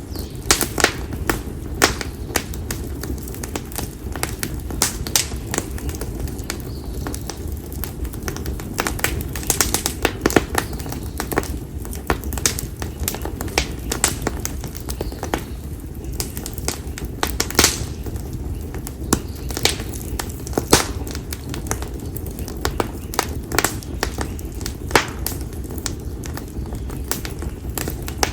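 Split konara oak firewood crackling and popping in an open fire: irregular sharp pops, several a second, some louder than others, over the low, steady rush of the flames.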